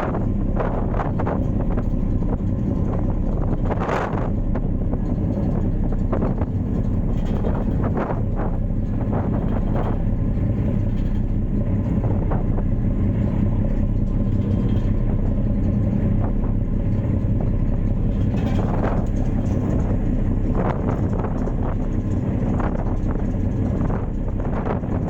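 Ferry engine running steadily with a low hum, with short rushes of noise on the microphone now and then.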